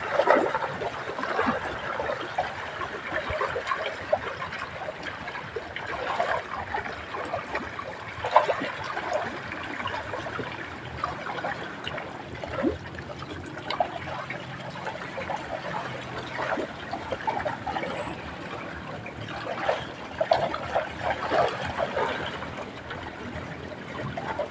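Water splashing and trickling in irregular bursts, with a few sharper splashes.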